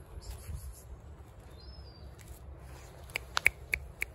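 Faint outdoor background with a few short, high bird chirps. Near the end comes a quick run of about five short, sharp clicks.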